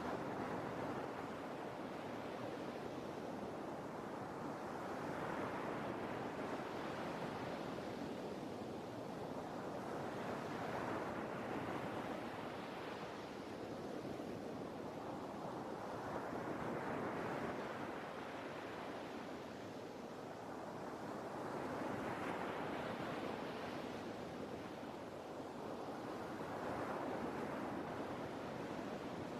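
Sea waves surging and receding, a steady rush of surf that swells and fades about every five to six seconds.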